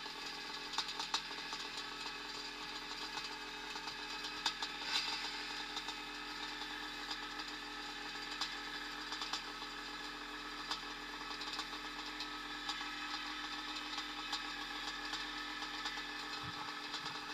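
Vintage motocross motorcycle engines running, a steady mechanical drone with scattered sharp clicks.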